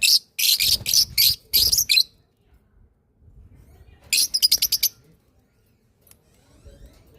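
A small bird chirping in two loud, high-pitched bouts: a string of about seven chirps at the start, then after a pause a quicker burst of about eight chirps.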